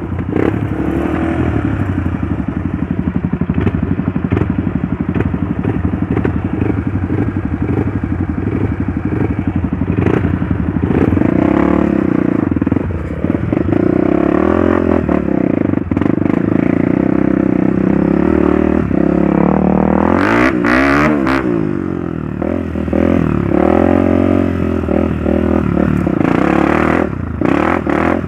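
Trail motorcycle engine running steadily under throttle, its pitch shifting as the rider rides on, with a sharp rev up and back down about two-thirds of the way through. Clattering from the bike runs along with it.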